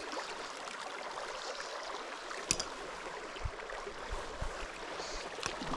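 Small mountain creek running over rocks, a steady rush of water, with a few faint knocks.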